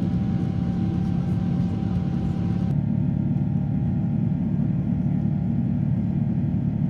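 Steady low rumble of engine and airflow noise inside the cabin of a Boeing 777-300ER with GE90-115B engines, during the departure climb. About a third of the way in, the higher hiss drops away abruptly while the rumble continues.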